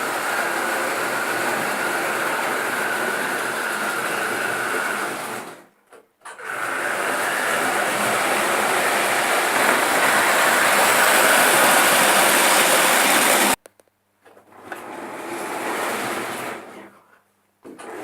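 Märklin model train running on its track, a steady small electric motor whirr with wheel and track noise. The sound cuts out suddenly three times.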